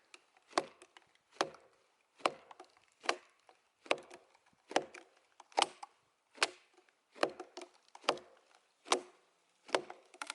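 Steady, evenly paced blows on a carved wooden wedge set in a split oak log, about one strike every 0.8 seconds, each a sharp wooden knock.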